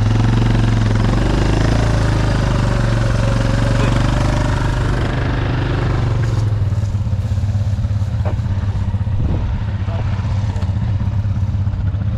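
ATV engine running steadily, busier for the first several seconds and then settling to a lower, even run.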